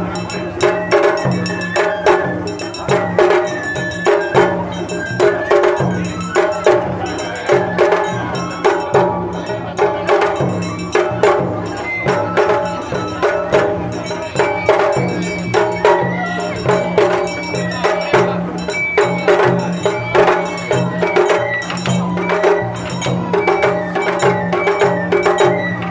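Japanese festival music (matsuri-bayashi) played on drums and other percussion, a loud, steady rhythm of strikes running on without a break.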